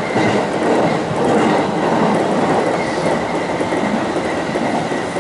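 Seibu Railway electric commuter train running on the rails, heard from inside the front car: a steady rumble of wheels on track with a thin, steady whine above it, as the train comes into a station.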